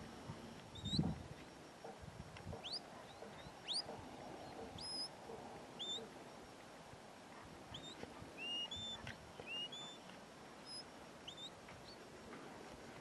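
Small birds chirping: scattered short, high chirps and quick upward-sweeping notes throughout, with a brief low rumble of wind on the microphone about a second in.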